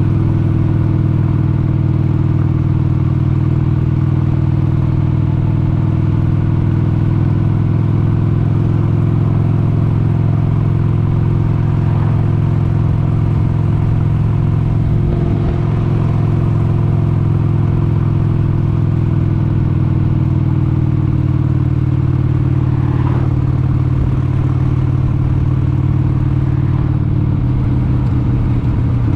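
1996 Harley-Davidson XLH883 Sportster's air-cooled 883 cc Evolution V-twin running at a steady cruising pace on the road, its note easing slightly lower in pitch near the end as it slows off.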